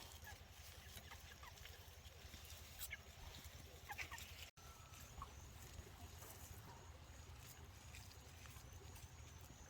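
Faint, scattered chirps and clucks of poultry over a low steady hum, close to near silence. The audio drops out for an instant about four and a half seconds in.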